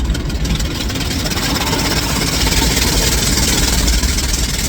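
Automatic car wash at work, heard from inside the car: a steady loud hiss of water spray and wash equipment on the body over a low rumble.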